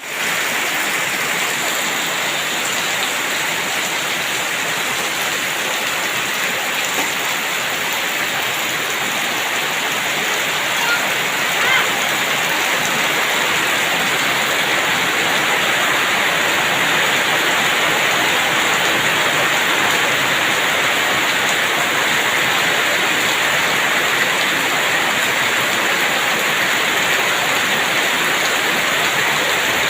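Steady rain falling, an even, dense hiss that holds unchanged throughout.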